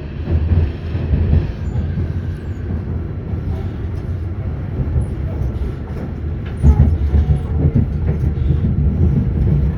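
Running noise of an Auckland AM class electric multiple unit: a steady low rumble of wheels on rail, with louder jolts about half a second in and again near seven seconds.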